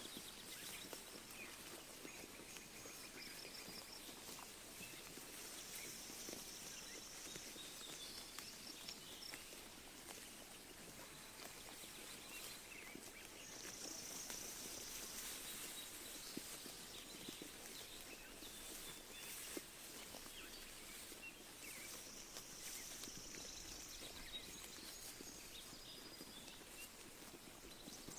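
Sheep grazing, tearing and chewing grass in a faint stream of small crackles and clicks, with birds chirping in short high bursts several times.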